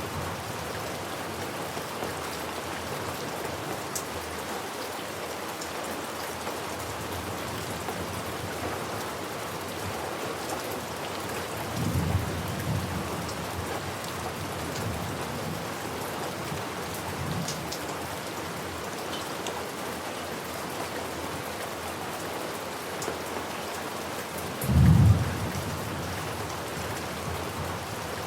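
Steady rain falling, with thunder: a low rumble about twelve seconds in and a louder, shorter rumble near the end.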